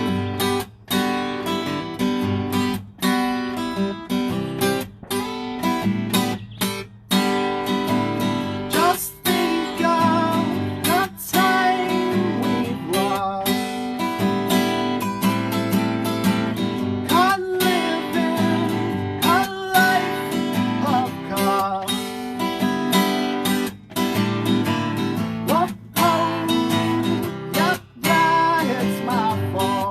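Acoustic guitar strummed in a steady rhythm, with a male voice singing a song over it from about nine seconds in.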